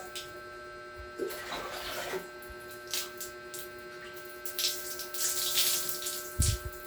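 Tap water splashing unevenly as hair is rinsed under it, over a steady hum, with a low thump near the end.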